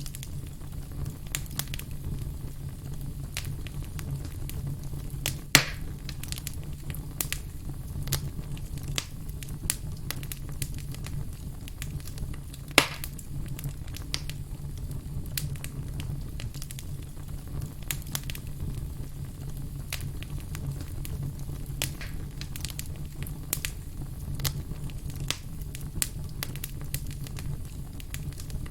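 Wood fire crackling, with a steady low rumble under frequent small sharp crackles. Two louder pops stand out, about five and a half and thirteen seconds in.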